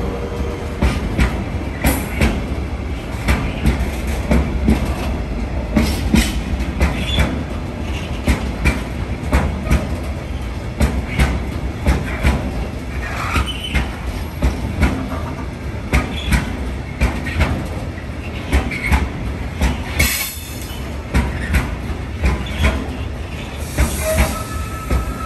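Loaded freight hopper wagons rolling past at low speed: a steady low rumble of wheels on track, with repeated irregular clacks as the wheels cross rail joints and a few short high wheel squeals.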